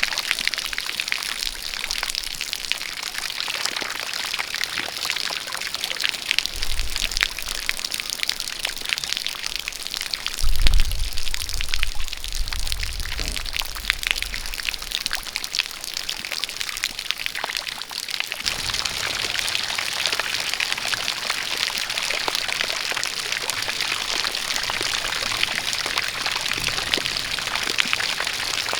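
Steady rain falling, with a jet of water pouring and splashing and a dense patter of close drops. Low rumbles come and go near the middle, the loudest about a third of the way in.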